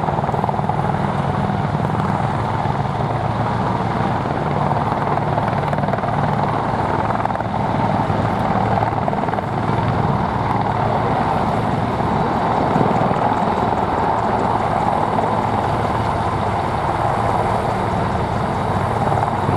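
Military helicopters flying: a steady, loud rotor chop with turbine engine noise.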